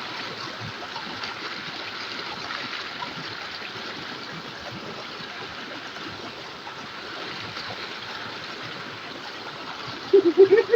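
A clear, shallow river flows steadily, a continuous rushing and babbling of water. A loud voice cuts in near the end.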